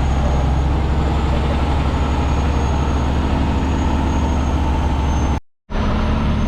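Heavy truck engine running steadily under way, heard from inside the cab; the sound cuts out completely for a moment about five and a half seconds in.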